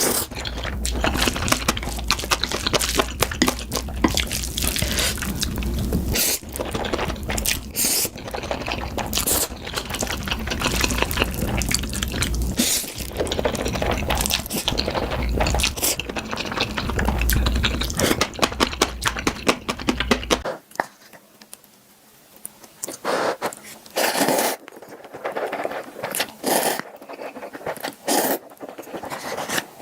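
Close-miked mukbang eating sounds: chewing, smacking and food-handling noises, dense and continuous. About twenty seconds in it cuts to a quieter stretch of separate bites and mouth clicks.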